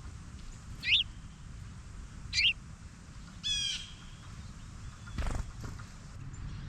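Wild birds calling: two short, sharp, falling chips about a second and a half apart, then a quick harsh run of notes, and a low thump about five seconds in.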